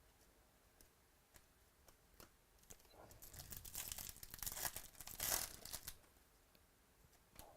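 A trading-card pack wrapper being torn open and crinkled: a rustling, crackling tear lasting about three seconds, starting about three seconds in, loudest just before the end. A few light clicks of cards being handled come before it.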